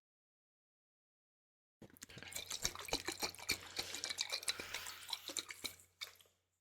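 Wet liquid sounds close to the microphone: a dense, irregular run of small pops and crackles, starting about two seconds in and lasting about four seconds.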